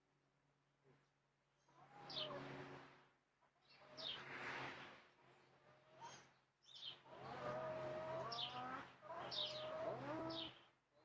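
Backyard hens calling softly, a few separate calls at first, then a longer run of drawn-out, wavering calls in the second half.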